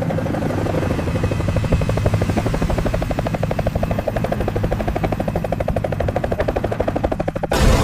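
Helicopter rotor chopping in a fast, even beat; it cuts off suddenly near the end as music comes back in.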